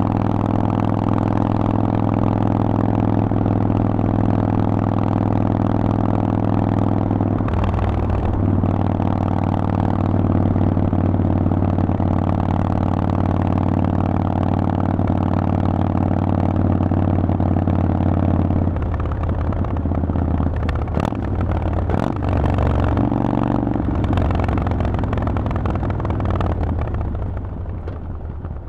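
Harley-Davidson Forty-Eight's V-twin through a Vance & Hines exhaust, running at a steady cruise, with a brief break about eight seconds in, as at a gear change. After about nineteen seconds the throttle closes and the engine runs lower and unevenly, with a few sharp clicks, then fades near the end.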